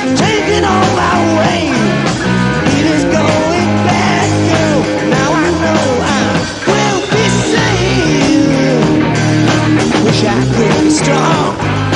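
Rock song playing: a full band with a sung or lead melodic line over steady bass notes.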